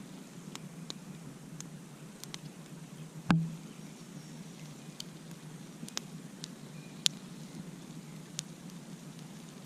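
Campfire crackling: scattered sharp pops and snaps of burning wood over a steady low hum, with a loud pop about three seconds in and another sharp one near seven seconds.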